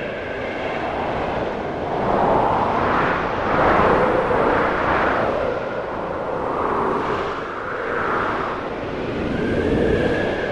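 Snowstorm wind gusting outside, a steady rushing noise that swells and fades in several slow gusts.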